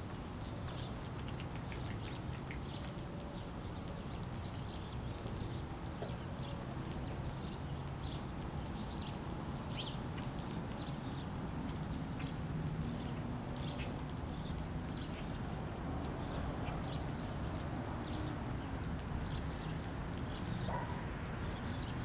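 Small birds chirping, many short high chirps scattered through the whole stretch, over a steady low background hum.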